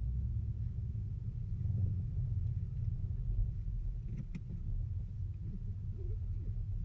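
Low, steady rumble of a car, with a short click about four seconds in.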